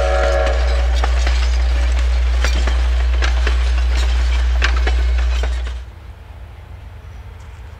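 A train passing close by: a heavy rumble with irregular sharp clicks and clanks of wheels on the rails, and a held blast of the train's warning signal dying away in the first half second. Just under six seconds in, the sound drops suddenly to a much quieter background rumble.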